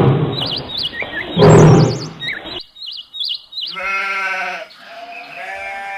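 Two loud, rough bursts of noise laced with high warbling chirps, then, after a short gap, livestock bleating: a run of long, quavering bleats.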